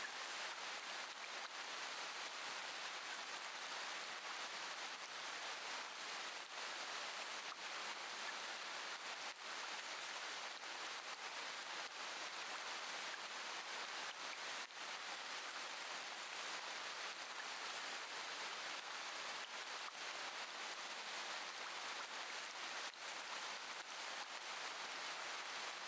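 Steady rain falling, an even hiss with faint scattered drop ticks. No thunder.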